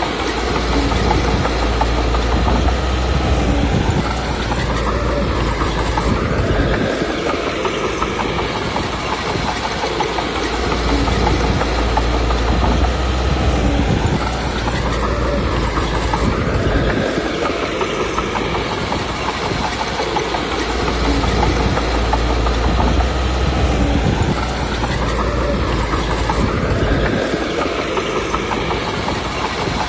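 Komatsu D21P crawler bulldozer working: its diesel engine runs steadily with clanking tracks, and the engine pitch rises and falls in a repeating cycle about every ten seconds.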